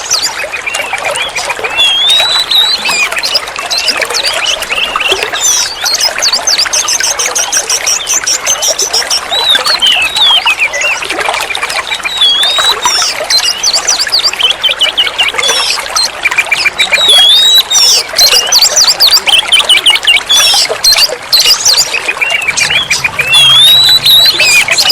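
Oriental magpie-robin (kacer) singing a long, varied song of clear whistles, slurred notes and fast trilling chatter, as used for masteran training of captive birds. A steady background of trickling running water.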